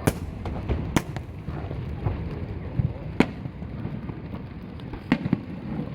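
Aerial fireworks shells bursting: sharp bangs every second or two, two in quick succession near the end, over a continuous low rumble.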